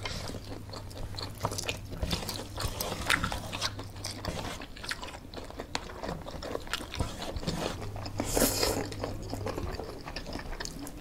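Close-up mukbang eating sounds: biting and chewing fried dumplings and noodles, with many small wet mouth clicks and smacks. A short, louder hiss comes about eight seconds in. A low steady hum runs underneath.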